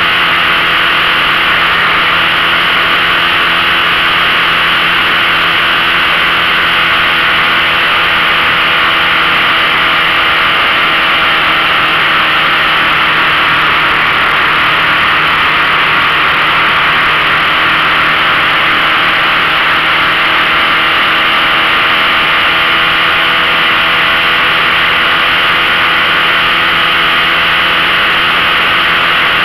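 A 15 hp outboard motor running at a steady speed under a constant hiss.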